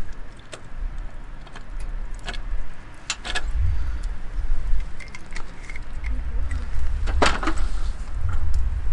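A few light clinks and knocks, the loudest about seven seconds in, over a steady low rumble.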